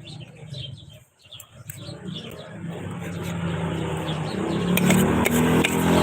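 A motor vehicle's engine growing steadily louder as it approaches, with small birds chirping at the start.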